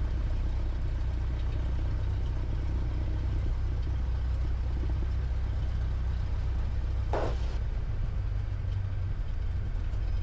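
Cessna 172's four-cylinder piston engine running at low idle power while taxiing, a steady low drone. A brief sharp noise cuts in about seven seconds in.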